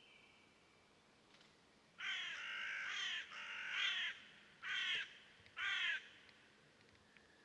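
A bird giving four loud, harsh calls, the first two drawn out and the last two short and about a second apart.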